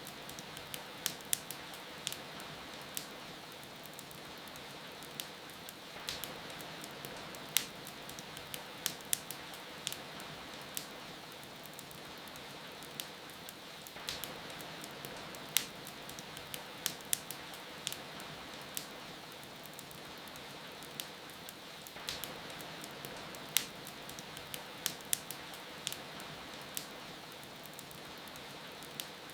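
Wood fire crackling, sharp irregular pops and snaps in clusters about every eight seconds, over a steady hiss of falling rain.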